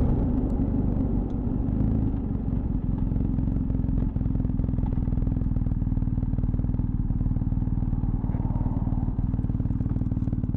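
BMW R 1250 GS Adventure's boxer-twin engine dropping back in the first couple of seconds and then idling steadily with an even, low rumble.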